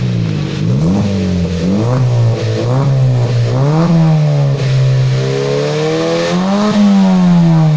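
Honda Brio's four-cylinder engine revved in several short blips through an aftermarket exhaust with a custom muffler, the pitch rising and falling between them.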